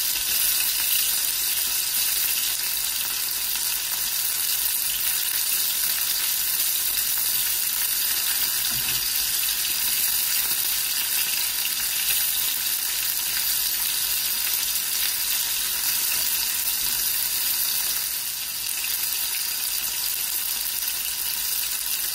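Flour-coated chicken breast cubes sizzling steadily as they fry in hot oil in a nonstick wok-shaped pan.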